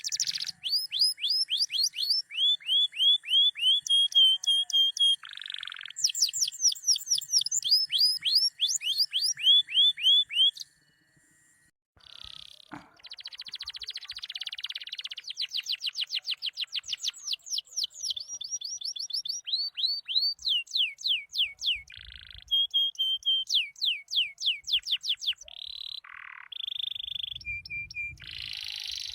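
Canary singing in long runs of rapid, repeated downward-sweeping whistled notes, broken by a silent break about eleven seconds in before the song resumes.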